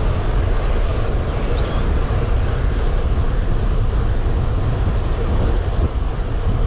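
Steady wind rush buffeting an action camera's microphone on a road bike ridden at speed.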